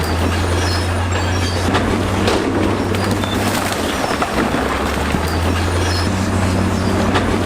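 Crawler bulldozer's diesel engine running under load, with the steel tracks clanking and squealing and rocks scraping as it pushes.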